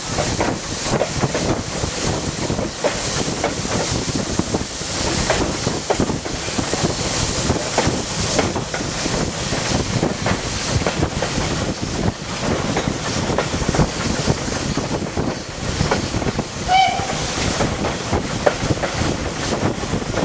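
Train running on the heritage railway: a steady rattle of wheels over the rails with a dense run of clicks and knocks, and wind buffeting the microphone. A brief high squeak about three-quarters of the way through.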